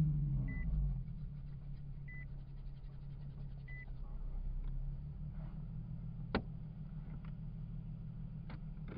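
Nissan 370Z's 3.7-litre V6 just after starting, its revs dropping from the start-up flare into a steady idle within about a second. An electronic chime beeps three times at even intervals in the first few seconds, and a single sharp click comes about six seconds in.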